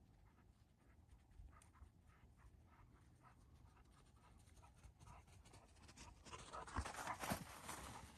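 Faint, soft crunches and rustles on the woodland floor, growing into a louder, scratchy rustling about six seconds in.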